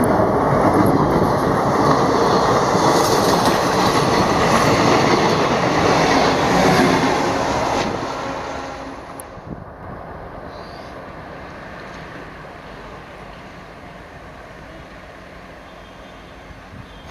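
A train passing close on the track, loud for about eight seconds, then dropping away quickly to a quieter steady rumble as it recedes.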